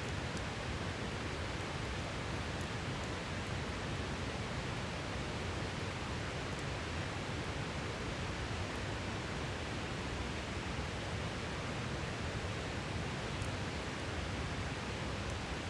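A river flowing, a steady rushing of water, with a few faint crackles from a wood campfire scattered through it.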